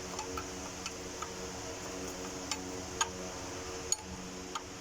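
Light, scattered clicks at irregular intervals from hand tools working the fuel line fitting on the engine, over a steady background hum.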